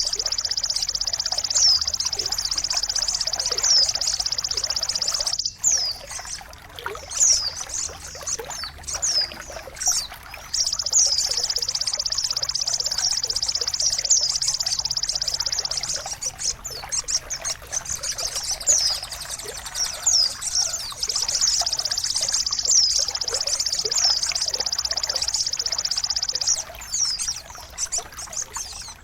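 Songbird song for tutoring a caged bird: a long, fast, high-pitched trill held for several seconds at a time, broken by short falling chirps, over trickling water.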